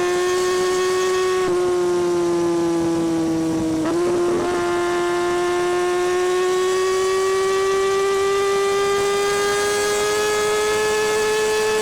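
2017 Kawasaki Ninja ZX-6R's inline-four engine and exhaust under way, a steady high note that climbs slowly in pitch as the bike accelerates. The pitch dips briefly about a second and a half in and again about four seconds in.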